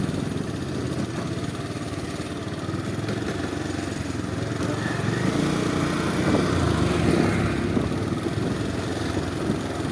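Bajaj Pulsar's single-cylinder motorcycle engine running steadily, getting a little louder in the middle and easing off again.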